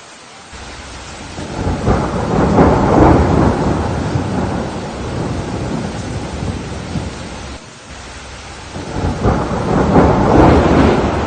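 Steady rain with two loud peals of rolling thunder, the first swelling up about two seconds in and slowly fading, the second near the end.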